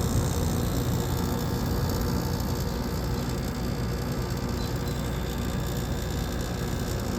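Window air conditioner with a Matsushita rotary compressor running just after start-up: a steady hum with fan noise over it, heard from the outdoor side of the unit.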